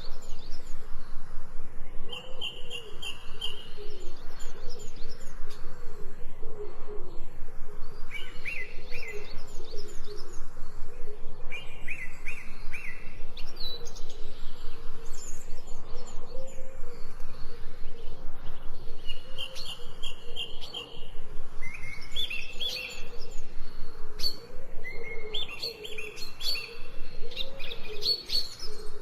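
Forest birdsong: several birds repeating short trills and chirps, more of them overlapping near the end, over lower wavering notes.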